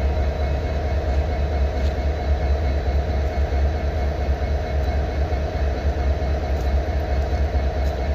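Parked diesel-electric freight locomotives idling: a steady low rumble with a faint hum above it.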